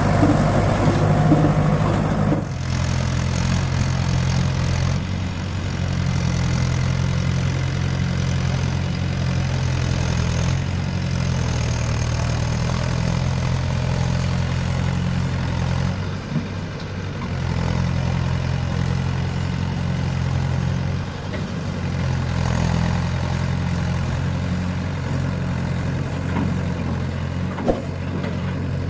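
Diesel tractor engine running steadily at a low, even speed, easing off briefly twice.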